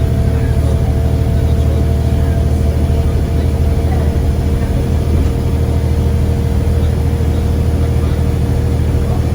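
Scania CN94UA bus engine running steadily, heard on board: a low drone with a steady higher whine over it, no change in pitch.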